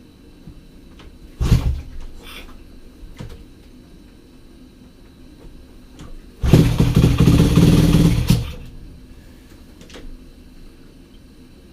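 Bored-up Honda Monkey single-cylinder engine being started after its overhaul: a short burst about a second and a half in, then it fires and runs for about two seconds before cutting off.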